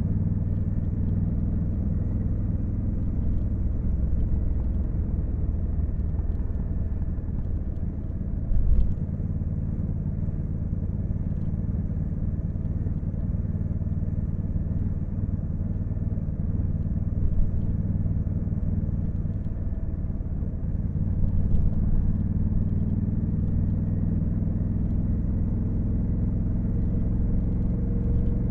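Honda Africa Twin CRF1100L's 1084 cc parallel-twin engine running at a fairly steady cruise while riding, with a brief low thump about nine seconds in.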